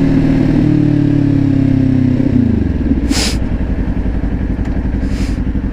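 Motorcycle engine running at raised revs, then the revs fall about two seconds in and it settles to a lower, pulsing idle. Two short hisses come at about three and five seconds.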